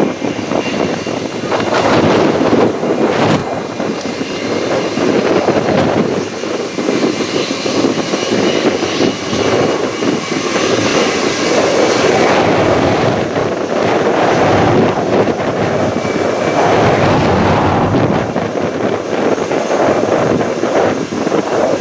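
Jet airliner engines running, a steady rush with a faint high whine, mixed with wind buffeting the microphone.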